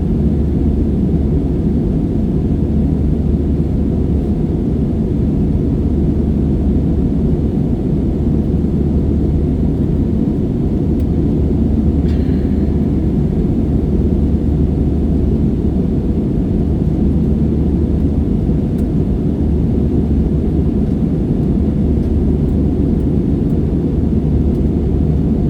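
Steady low rumble of jet engines and airflow, heard inside the passenger cabin of an AirAsia Airbus A320-family airliner in flight after take-off.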